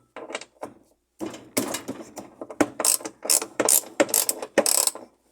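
Socket ratchet wrench clicking in quick back-and-forth strokes, about three a second, as it turns out a 12 mm bolt.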